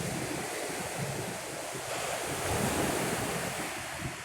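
Steady rushing of wind on the microphone mixed with ocean surf, swelling slightly a little past halfway.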